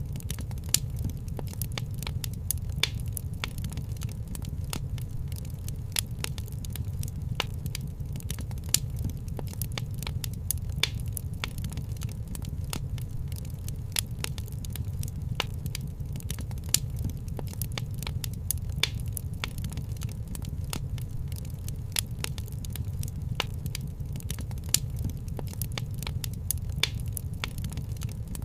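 Wood fire crackling: frequent sharp pops and snaps, several a second, over a steady low rumble.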